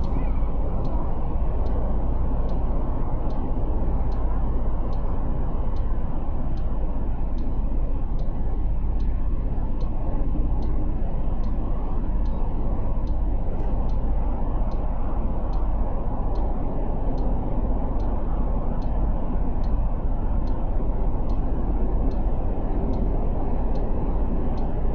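Motorcycle on the move, its engine and the wind making a steady low rumble on a bike-mounted microphone. Faint, even ticking about one and a half times a second runs through it.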